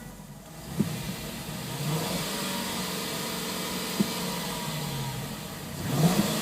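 2005 Ford Thunderbird's 3.9-litre DOHC V8 running with the throttle blipped sharply twice, about a second in and again about four seconds in, then revved up again near the end.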